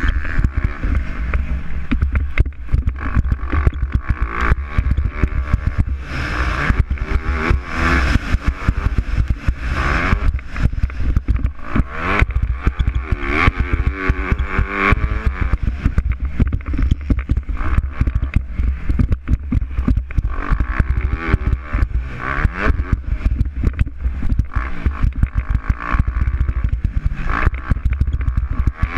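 Motocross bikes racing, their engines revving up and down as they pass and shift. Constant crackle and a low rumble run underneath.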